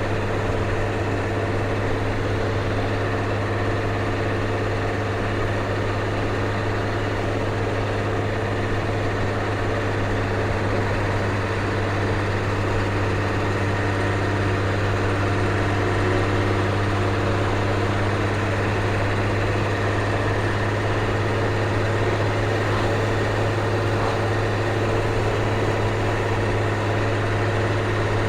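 Ford CF7000 truck's 6.6L Brazil inline-six diesel running at a steady, low drone while driving, heard from inside the cab.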